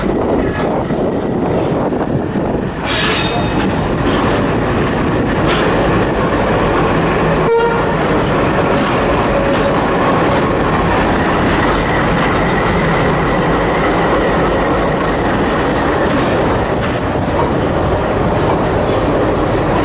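Passenger express train running, heard from aboard: a steady rumble of wheels on the rails. A brief high-pitched tone sounds about three seconds in, and a single sharp knock comes a few seconds later.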